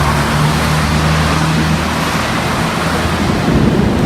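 Steady roar of a thunderstorm's wind and rain on the microphone, with a low steady hum underneath that fades out about two seconds in.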